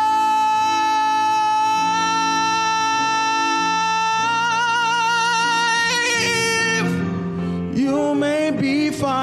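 A male solo singer in a gospel song holds one long high note over a steady instrumental accompaniment. Vibrato comes into the note about four seconds in, and he moves into the next phrase near the end.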